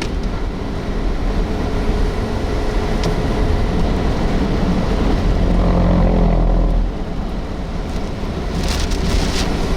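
Strong storm wind buffeting a moving vehicle, heard from inside the cab over engine and road rumble. Near the end, rain starts hitting the vehicle.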